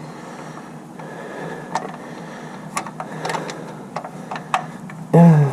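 Irregular metal clicks and taps of hand tools and parts being worked at the engine's timing cover. Near the end comes a short grunt falling in pitch, the loudest sound.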